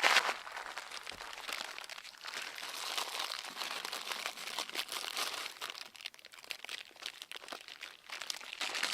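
Irregular rustling and crunching, loudest right at the start and again near the end.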